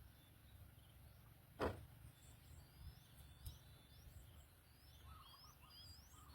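Near-quiet background with faint, short, rising bird chirps from about two and a half seconds in, and a single knock about a second and a half in.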